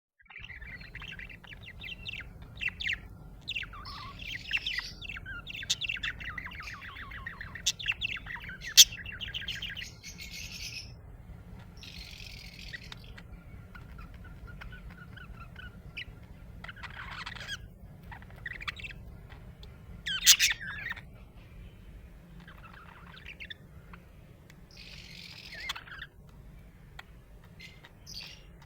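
Budgerigars chirping and chattering: a dense run of quick warbling chirps for the first ten seconds, then scattered calls. Two sharp, loud calls stand out, one about nine seconds in and one about twenty seconds in.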